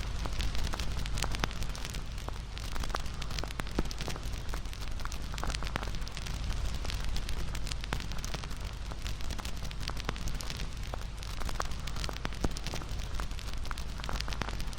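Wood campfire burning, with many small sharp crackles and pops over a steady low rush of flame.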